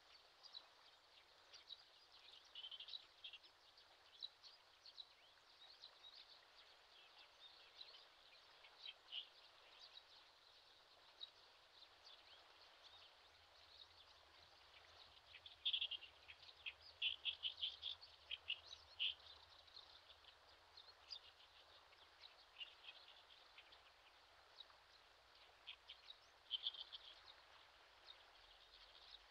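Faint bird chirps: many short, high notes over a soft background hiss, with a busier run of quick chirps around the middle and another brief cluster near the end.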